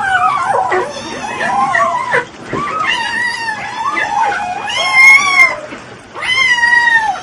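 A cat yowling in long, wavering calls one after another, with two higher, louder calls near the end.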